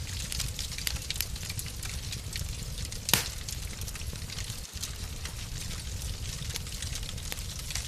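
Fireplace fire burning, with a steady low rumble and many small crackles, and one louder pop about three seconds in.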